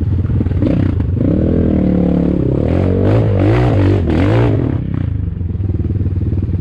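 Enduro motorcycle engine idling steadily while another dirt bike nearby revs up and down repeatedly for about four seconds on a climb, then drops back.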